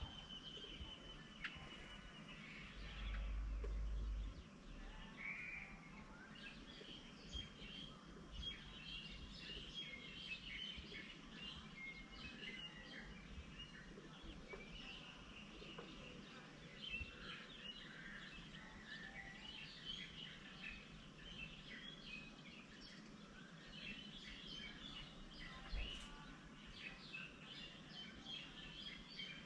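Birds chirping and calling in many short, overlapping notes, with a brief low rumble about three seconds in.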